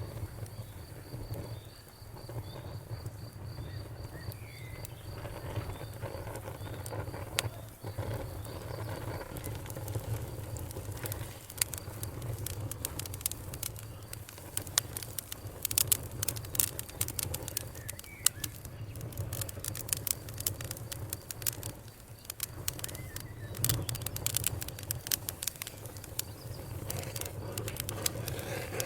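Wood fire crackling in a fireplace: a steady low rumble of burning with many sharp pops and snaps, which come thicker from about ten seconds in.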